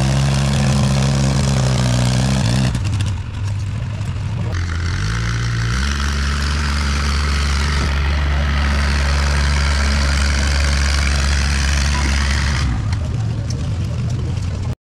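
An engine running steadily. About two and a half seconds in, its pitch drops; around five seconds it climbs back up and holds steady. The sound cuts off suddenly near the end.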